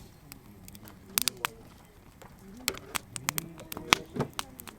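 Wood campfire crackling, with sharp irregular pops. A cluster of pops comes about a second in, and the loudest pop comes about four seconds in.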